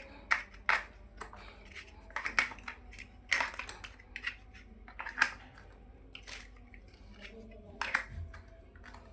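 Plastic building-block pieces clicking and snapping together: a string of sharp, irregular clicks with a few quieter seconds partway through.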